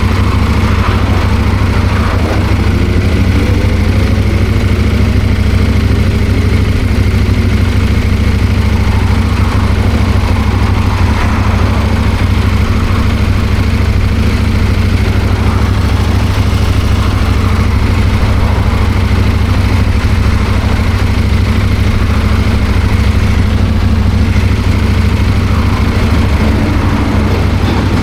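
CFMOTO 800MT parallel-twin motorcycle engine running steadily, a loud, even low drone with no breaks in it.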